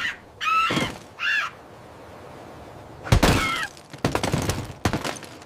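Animation sound effects: three short squawks, then a quick clatter of sharp knocks about four seconds in.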